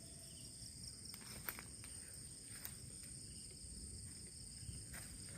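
Night insects, crickets, keep up a steady high-pitched trill on two pitches, with a few soft scattered clicks.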